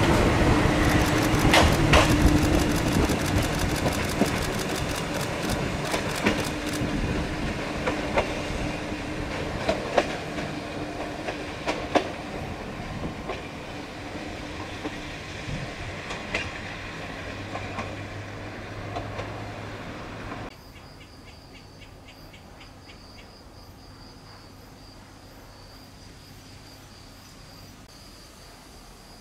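Choshi Electric Railway train passing underneath and running away down the line, its wheels clacking over rail joints at spreading intervals over a steady motor hum, fading as it recedes. About twenty seconds in it cuts to a quiet steady high insect drone.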